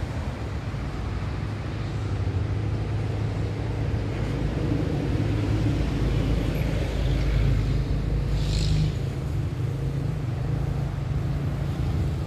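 Low, steady rumble of an SRT Red Line electric train approaching, growing slightly louder, with a brief higher hiss about eight and a half seconds in.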